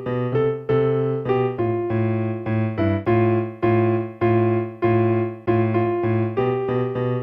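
Electronic keyboard with a piano voice, played with both hands: simple notes struck at an even, unhurried pace, with low notes sounding under a changing upper line.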